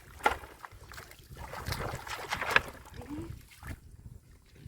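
Hands sloshing and splashing in shallow muddy water, with a couple of sharp slaps or knocks.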